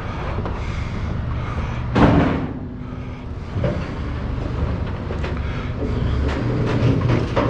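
A vehicle engine idling steadily, with a loud clatter of items being handled about two seconds in and a smaller knock a little later.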